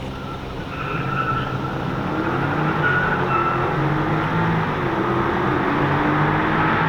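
Car accelerating hard from a standing drag-race launch, the engine growing louder over the first few seconds and dropping in pitch a few times as it shifts up through the gears.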